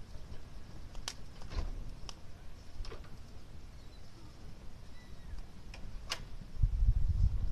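A handful of scattered sharp clicks over a low rumble; the rumble grows much louder near the end.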